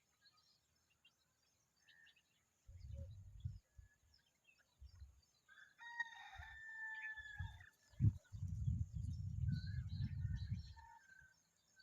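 A rooster crows once about six seconds in, over faint scattered chirps of small birds. Low rumbling bursts, louder than the birds, come and go throughout.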